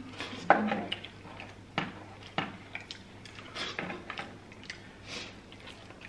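Close-miked mouth sounds of people chewing soft coconut buns soaked in coconut cream: wet smacks and sharp clicks, the loudest about half a second in and near two seconds in.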